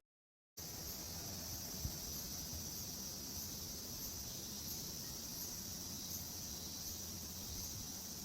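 A steady, high-pitched chorus of insects chirring, with a faint regular pulse about once a second. It begins about half a second in.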